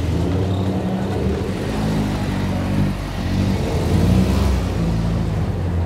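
Lamborghini engine running as the car is maneuvered at low speed, with the revs rising briefly about three and a half seconds in, then settling again.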